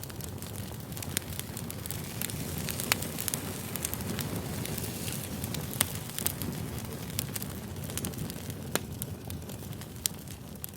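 Wood campfire burning: a steady rush of flame with scattered sharp crackles and pops.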